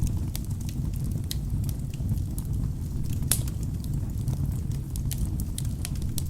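Wood logs burning in a fireplace: a steady low rumble of flames with frequent sharp crackles and pops, one louder pop about three seconds in.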